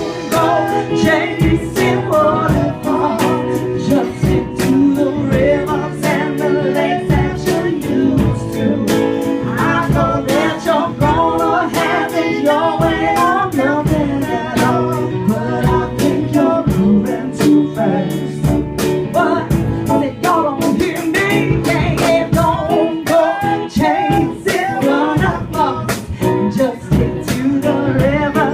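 Live song: a voice singing over a steadily strummed guitar.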